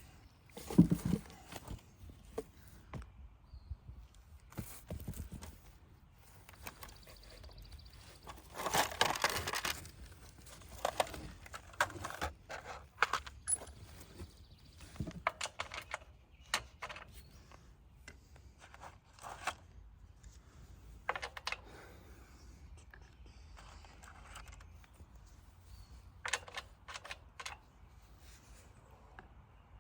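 Scattered clicks, knocks and scrapes of small parts and tools being handled, with a longer stretch of rustling about nine seconds in.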